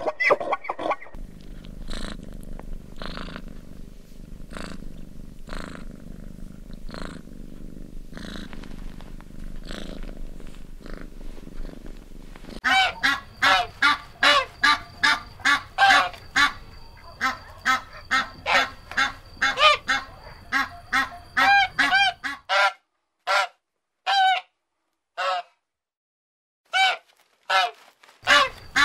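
Geese honking in a dense run of quick, loud repeated calls from about halfway through, thinning to single calls with silence between them near the end. Before that only a low steady background with faint soft sounds about once a second.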